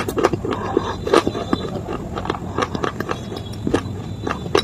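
Pieces of dry roasted clay and slate being crunched: a run of sharp, irregular cracks and crackles, several to the second.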